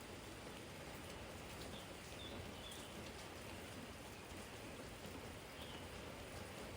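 Steady, soft spring rain with scattered drops pattering on a garden jar.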